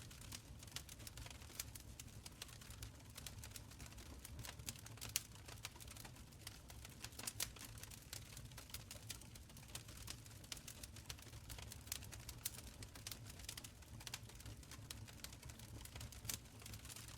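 Wood fire crackling in an open stone fireplace: a steady scatter of small irregular pops and snaps over a faint low rumble, with a few sharper pops standing out.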